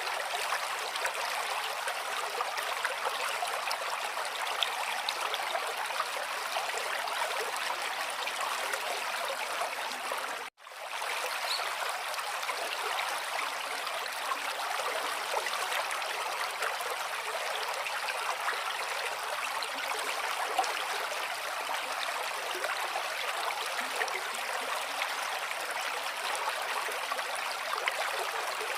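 Flowing water running steadily, an even rushing trickle like a stream. The sound cuts out for a split second about ten seconds in, then resumes unchanged.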